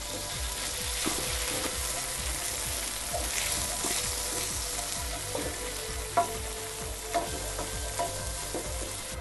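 Garlic and tomato puree sizzling steadily in hot oil in a pan while being stirred with a wooden spoon, with a few light knocks of the spoon against the pan about six and seven seconds in.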